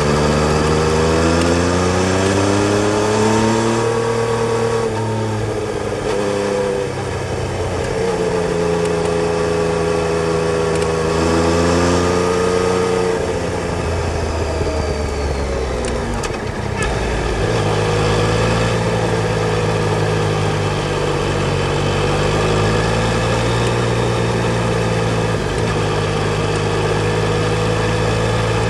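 Yamaha Tracer 900 GT's three-cylinder engine running under way. Its pitch climbs over the first few seconds, eases, climbs again, drops about halfway through, then holds nearly steady over a constant hiss.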